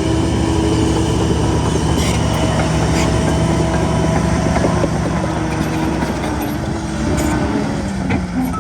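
Heavy diesel earthmoving machinery running steadily, with a few short metallic clanks.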